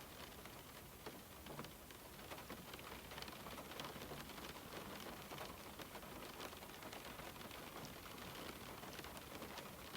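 Steady rain falling on a window, a soft continuous hiss with many small drop taps.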